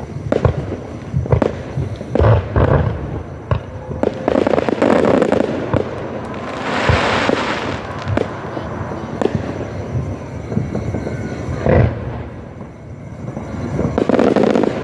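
Aerial fireworks going off in quick succession: repeated sharp bangs and booms, with a dense burst of crackling about halfway through.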